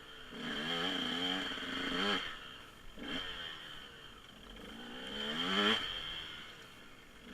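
Dirt bike engine revving up twice, its pitch climbing and then dropping off each time, with a shorter blip in between. A steady high whine runs underneath.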